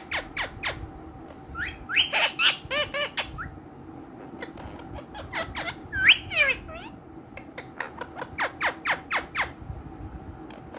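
Ring-necked parakeets calling: runs of short, sharp, downward-sliding squawks at about four a second, with a cluster of harsher squawks about two seconds in and a longer swooping call about six seconds in.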